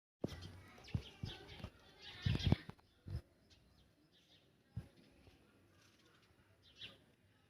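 A few short, high bird chirps among knocks and rustling, with the knocks and rustling loudest in the first three seconds.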